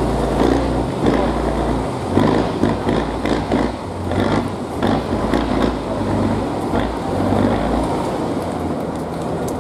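Trial truck's diesel engine running, its note changing as it works, over irregular noise and short knocks.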